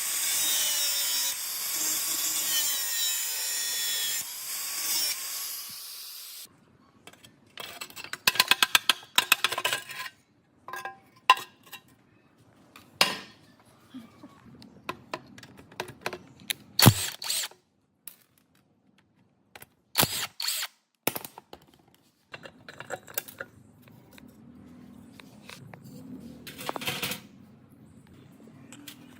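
Workshop tool work: a power tool runs steadily for about six seconds and cuts off abruptly. Then comes a scattered series of sharp clicks and knocks in short clusters, with quiet gaps between them.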